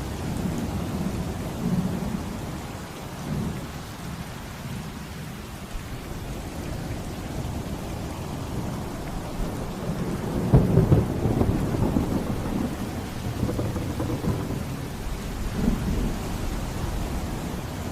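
Thunder rumbling over steady heavy rain, with the loudest, crackling roll of thunder about ten seconds in and smaller rumbles before and after.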